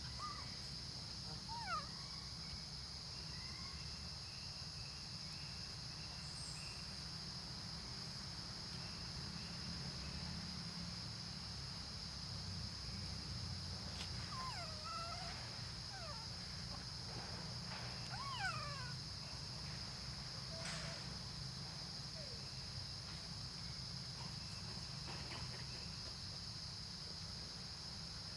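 Baby monkey's short, high squealing cries, a few scattered calls that slide up and down in pitch, bunched together in the middle of the stretch, over a steady high drone.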